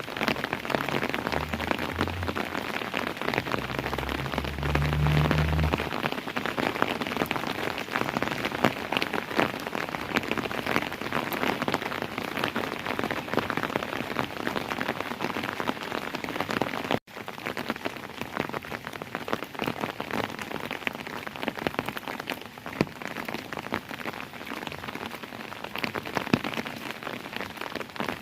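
Steady rain falling on a hard surface: a dense patter of drops. A low rumble is under it between about one and six seconds in, and the sound cuts out for an instant about seventeen seconds in.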